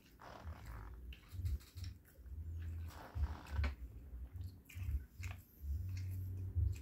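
A person chewing a mouthful of tuna fish sandwich close to the microphone: wet clicking mouth noises over irregular low thumps.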